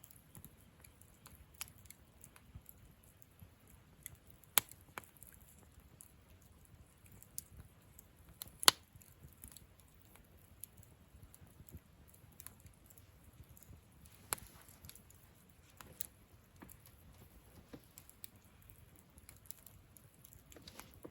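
Wood campfire burning, crackling with irregular small snaps and a few sharper pops, the loudest about nine seconds in, over a soft low rumble of the flames.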